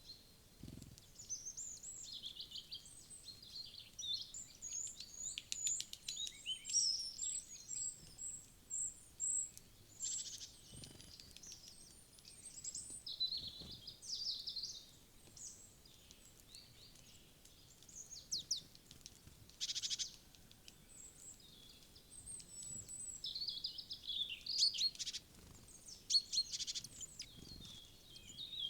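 Several small wild birds chirping and calling at a feeder: many short, high calls overlapping, with a quick run of repeated high notes about seven seconds in.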